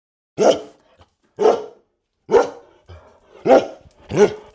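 A dog barking five times, roughly a second apart.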